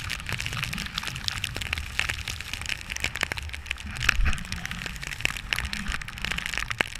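Snowboarding in a snowstorm heard through a GoPro's waterproof housing: a steady, muffled low rumble of wind and riding, with a dense run of small crackles and ticks throughout and a louder thump about four seconds in.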